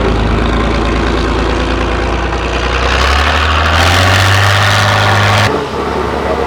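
Heavy truck's diesel engine running, then revving up for a couple of seconds about halfway through before the throttle comes off abruptly.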